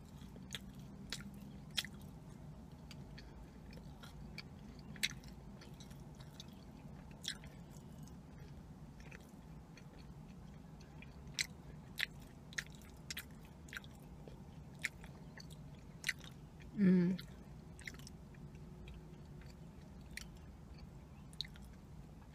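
Close-up chewing and crunching of a crisp sesame seed cookie, with scattered sharp crackles as the brittle seeds break between the teeth. About seventeen seconds in, a short hum from her voice falls in pitch.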